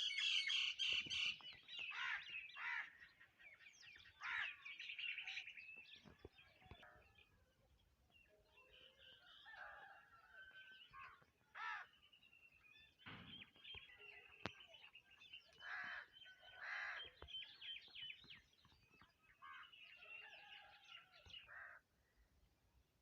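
Several wild birds chirping and calling over one another in short overlapping phrases. They are busiest at the start, thin out towards the middle, pick up again, and fall quiet just before the end.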